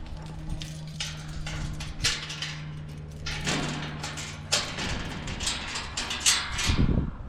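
Irregular clattering and crunching knocks, with a steady low hum through the first half that stops about four and a half seconds in.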